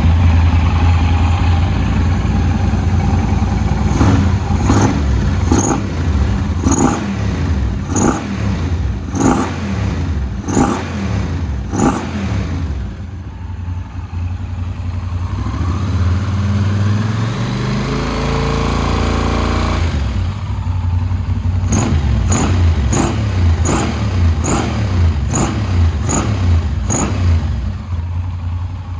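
Yamaha TRX850's parallel-twin engine, breathing through Keihin FCR41 carburettors and a Tairaracing full exhaust, idling and then being revved. It takes a string of quick throttle blips, then one long rev that climbs in pitch for several seconds before dropping, then more blips, and settles back to idle near the end.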